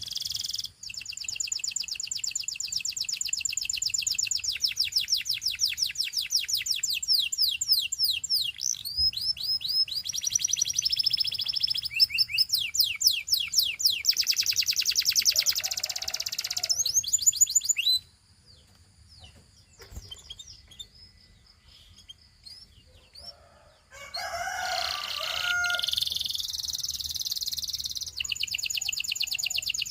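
Gloster canary singing in long fast trills of rapidly repeated notes, switching from one trill to the next every second or two. The song breaks off about 18 seconds in, leaving a few seconds of near quiet with faint thin notes, and resumes about 24 seconds in.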